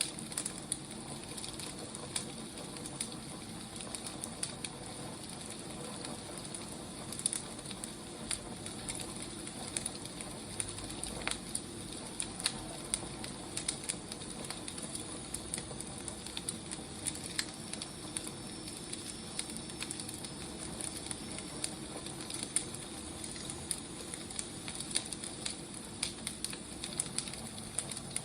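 Wood fire crackling: a steady soft hiss with irregular small snaps and pops.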